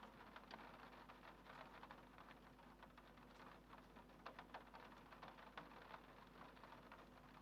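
Faint rain on a window: a soft steady hiss with scattered small drop ticks.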